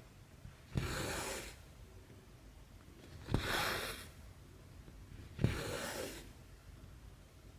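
Cross-stitch thread drawn through 11-count fabric three times, about two seconds apart: each stroke starts with a small tap and goes on as a rasping pull of thread lasting under a second.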